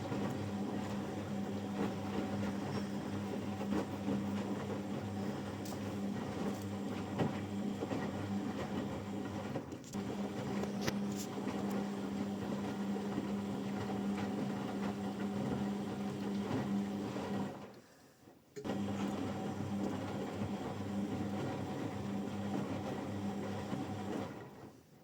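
Washing machine running a wash cycle: a steady motor hum with a low tone, cutting out briefly three times as the drum pauses.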